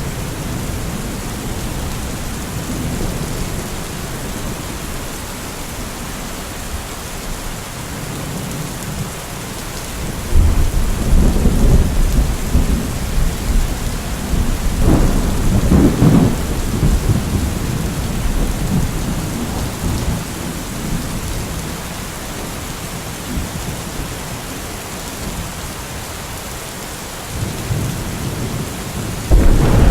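Steady rainfall with rolling thunder: a deep rumble builds about ten seconds in, swells to its loudest around the middle and dies away, and another thunderclap starts rumbling near the end.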